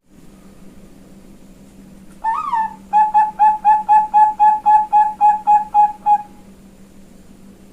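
Female zebra dove cooing: a wavering opening note about two seconds in, then a run of about a dozen short, even coos, some four a second, that stop about six seconds in.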